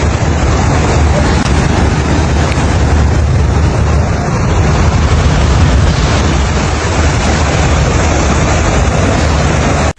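Storm noise of heavy rain and strong wind: a loud, steady roar with a deep rumble underneath.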